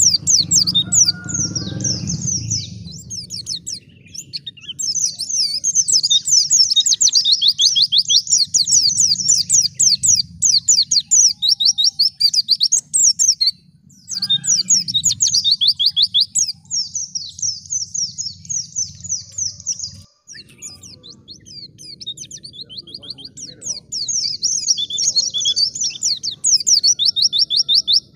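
White-eye (pleci) singing: rapid, high-pitched twittering song phrases in runs of several seconds, broken by short pauses.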